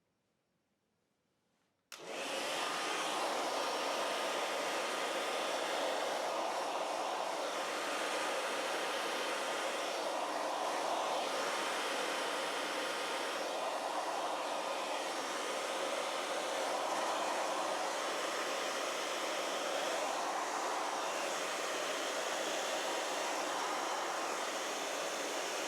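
Hair dryer switched on about two seconds in and blowing steadily, with its airflow swelling slightly now and then as it heats crayon wax on a wall.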